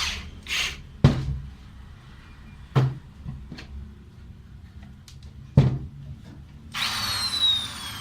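Electric drill being handled between runs: three sharp knocks and a few lighter clicks. Near the end the drill's motor starts again with a whine that falls in pitch.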